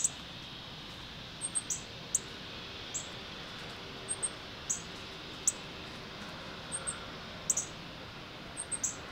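Short, high-pitched bird chirps, a dozen or so, coming singly and in quick twos and threes over a steady faint hiss.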